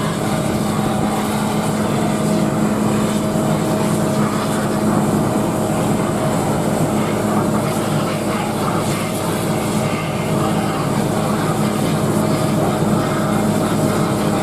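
Steady engine drone, a constant hum with a fainter higher tone over a rushing noise, unchanging throughout.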